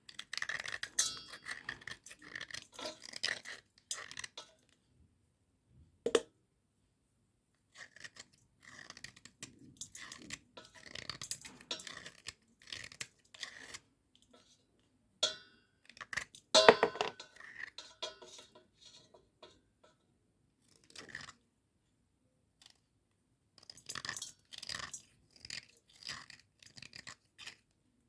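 Dry cubical slate pencils being scraped and rubbed in crisp, gritty, crunchy bursts, several clusters with short silent pauses between them and a sharper snap about six seconds in.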